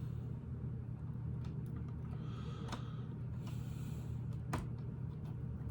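A few sharp clicks of Lego plastic parts, with brief rustling, as a built section is pressed onto the model's connector, over a steady low hum.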